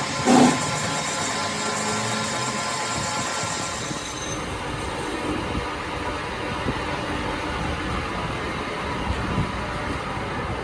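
Steady mechanical running noise, opening with two sharp knocks half a second apart.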